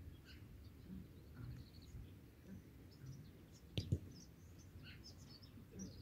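Small birds chirping in short scattered calls over a low steady rumble, with one sharp knock a little before four seconds in.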